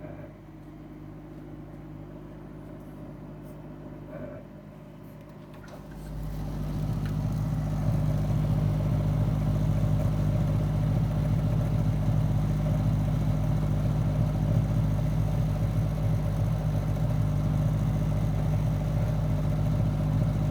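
Frigidaire freezer running with a low hum, then about six seconds in a loud, rough grinding drone starts up and keeps going. It is the intermittent grinding noise whose cause the owner has not yet found.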